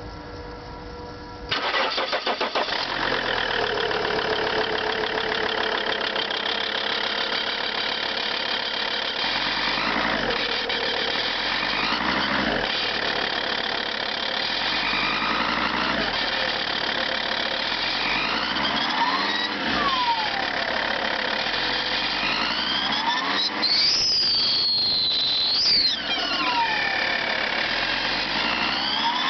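Lancia Thesis 2.4 JTD five-cylinder diesel engine starting from cold: it catches abruptly about a second and a half in, then runs with a dense clattering drone. In the second half its pitch rises and falls several times. The owner is seeking a diagnosis of the engine noise heard at cold start.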